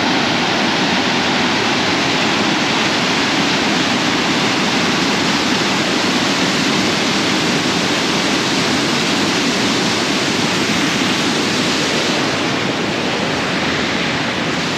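Waterfall on a tier of Mae Sa Waterfall: a loud, steady rush of falling water.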